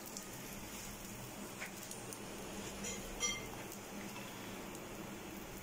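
Paratha frying in ghee on a flat tawa, a faint, steady sizzle with a few light clicks.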